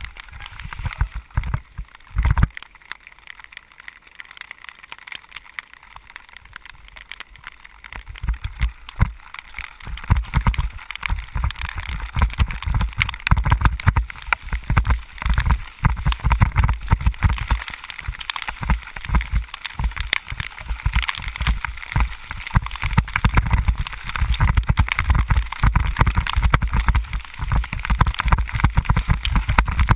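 Wind buffeting a camera microphone on a ride in the rain, with a crackling hiss of rain and wet spray. It is quieter for a few seconds early on and gets stronger from about eight seconds in.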